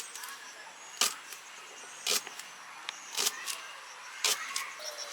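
Five sharp clicks, evenly spaced about once a second.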